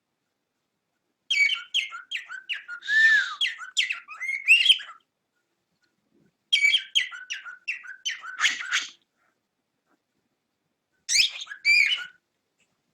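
Cockatiel chattering and warbling: three bouts of quick chirps and short whistled notes, about a second in, around six and a half seconds in, and near the end, with silent gaps between.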